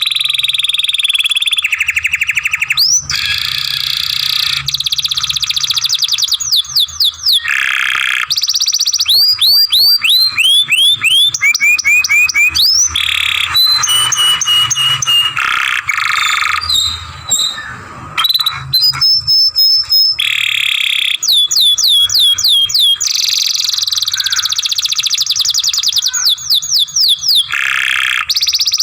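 Young domestic canary singing a long, unbroken song of fast rattling trills and rolls, alternating with quick runs of downward-sweeping whistled notes.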